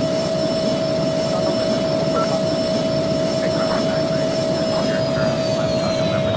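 Jet airliner engines running, a loud steady roar with a steady whine and a higher whine that slowly falls in pitch from about two-thirds of the way through.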